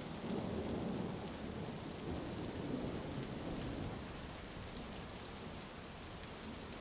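Heavy rain falling steadily, with a low rolling rumble of thunder that swells in the first second and dies away by about four seconds in.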